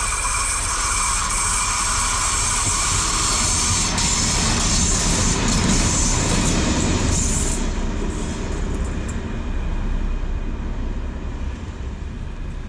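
Diesel train running past: a steady rumble and rush of wheels on rail, with thin high squealing tones in the first few seconds. The sound thins out in its upper range over the last few seconds, then cuts off suddenly.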